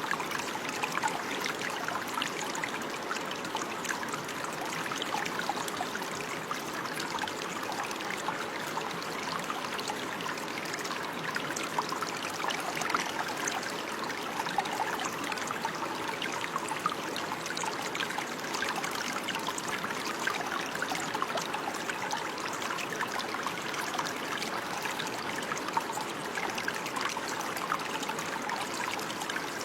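Running water: a small stream flowing and trickling steadily, with a constant light splashing and burbling.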